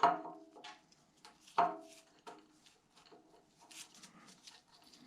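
Metal engine parts of a Cadillac 331 V8 being handled during teardown: a ringing metallic clank right at the start and another about a second and a half in, followed by lighter taps and scrapes.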